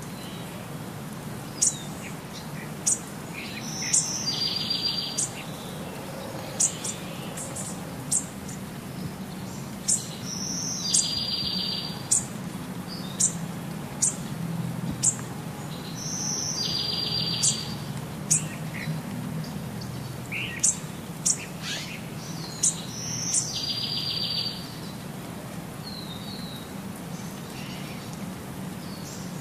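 Small birds chirping and singing: many short, high chirps throughout, with a brighter phrase that recurs about every six and a half seconds, like a looped birdsong recording.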